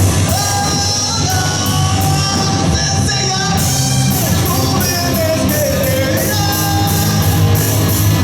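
Live rock band playing: a singer over electric guitar, bass and drums with a steady beat, echoing in a large hall.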